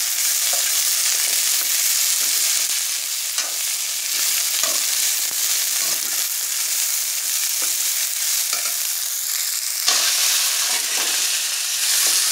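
Chopped okra sizzling in hot oil in a metal kadai, stirred with a metal ladle that scrapes the pan now and then. The sizzle gets louder about ten seconds in.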